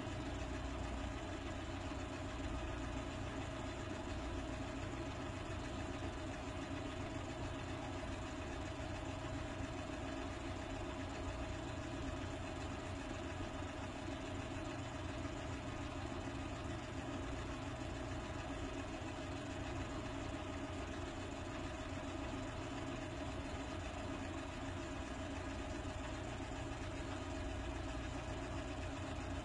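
A motor running steadily: an even hum with a constant tone that does not change.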